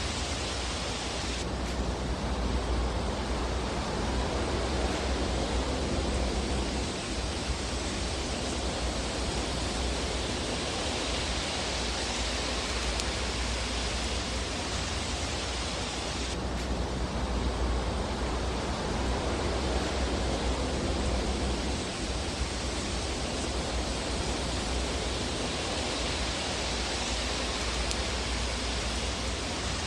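Fire burning in a fireplace: a steady, even hiss with a low rumble underneath and no distinct pops. The tone of the hiss shifts abruptly about a second and a half in and again around the middle.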